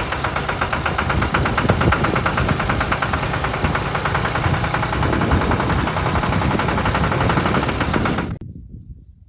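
A small engine running with a rapid, even beat that cuts off suddenly about eight seconds in.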